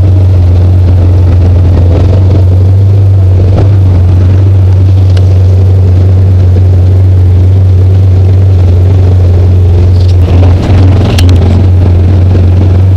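Side-by-side UTV engine running at a steady low drone while riding along a trail, heard from the passenger seat, with a few rattles and a brief dip in level about ten seconds in.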